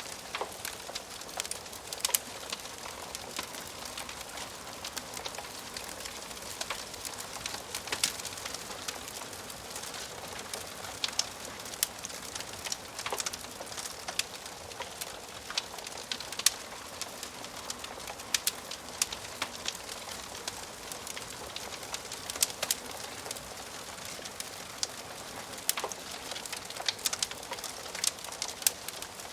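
Wood fire crackling in a fireplace: a steady hiss with frequent, irregular sharp pops and snaps of burning wood.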